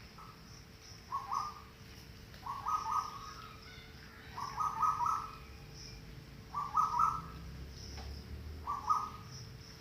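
Short, fluttering animal calls repeated five times, about every two seconds, over a faint steady hum.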